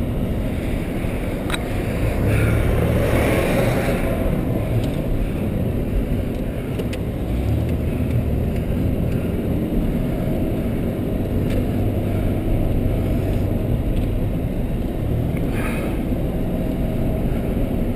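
A vehicle driving, with a steady low engine and road rumble that swells and eases a little.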